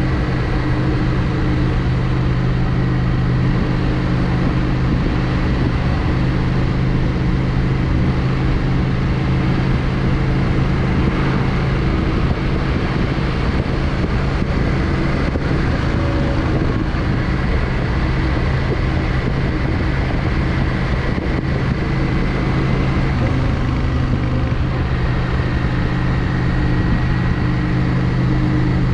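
Yamaha XVS 650 Drag Star's air-cooled V-twin engine running at a steady cruise under way. Its note holds even throughout, over a steady rush of noise.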